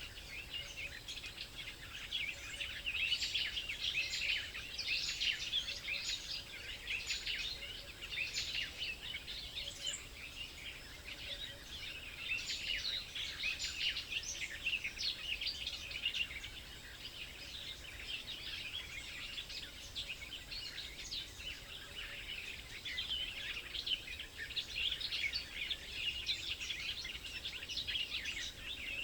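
Many small songbirds chirping and twittering at once, a dense, continuous overlapping chorus of short high calls.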